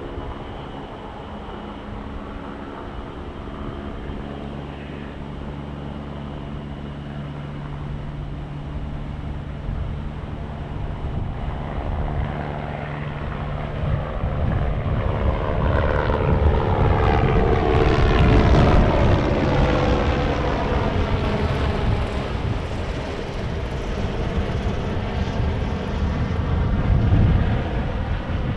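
Aircraft flying over: a steady engine drone that grows louder to its loudest a little past the middle, with a sweeping, phasing change in its tone as it passes.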